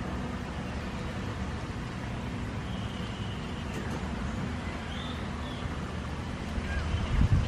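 Steady low rumble of distant road traffic, with a few faint high bird calls in the middle and a brief low buffet near the end.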